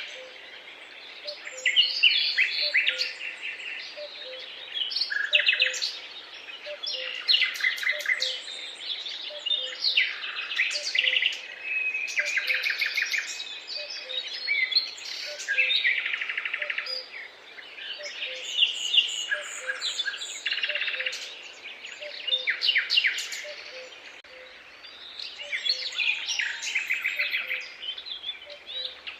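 Several songbirds singing together in a dawn-chorus mix, with overlapping quick trills, rattles and chirps coming in bursts every second or two. Beneath them a faint low note repeats at an even pace.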